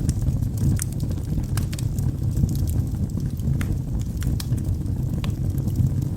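Wood fire burning in a fireplace: a steady low roar of flames with irregular sharp crackles and pops from the burning logs.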